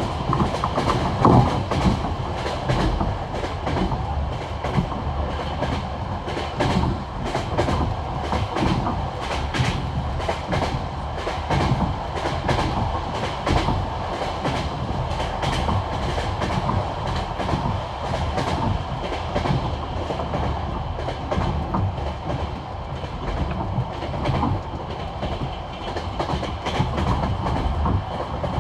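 Passenger railway carriage wheels clacking rhythmically over the rail joints of jointed track, over a constant rumble of the running train. One knock about a second in stands out louder.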